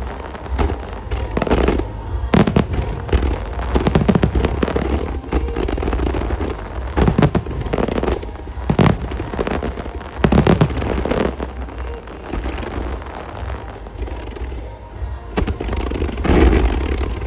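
Aerial fireworks shells bursting in a music starmine: a string of sharp bangs every second or two, with crackling between them and a steady low rumble, while pop music plays over loudspeakers.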